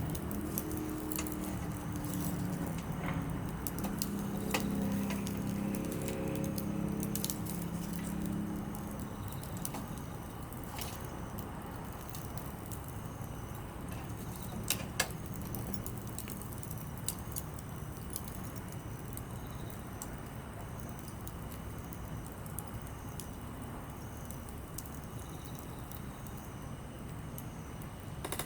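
Small wood campfire of softwood and hardwood splits crackling, with scattered sharp pops over a steady hiss. A low hum of several tones fades out about nine seconds in.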